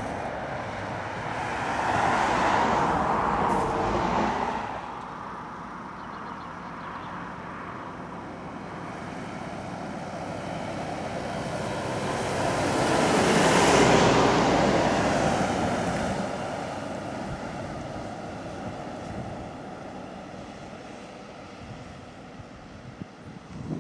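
Heavy trucks' diesel engines pulling hard up a steep road climb as they pass: one goes by in the first few seconds, then a louder one swells to its closest about 14 s in and fades away.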